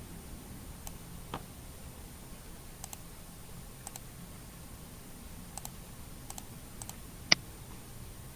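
Scattered light clicks of a computer mouse and keyboard over a faint steady room hiss, with one sharper, louder click about seven seconds in.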